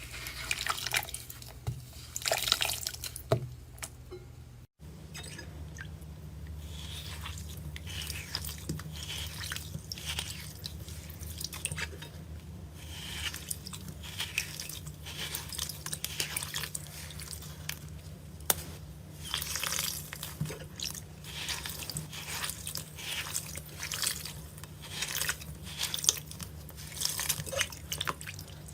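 Slime being squished and pressed by hand, making many small wet, sticky clicks and pops, with a steady low hum behind.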